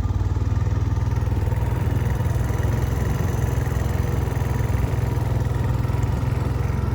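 A small engine running steadily at an even speed, with a low, pulsing hum.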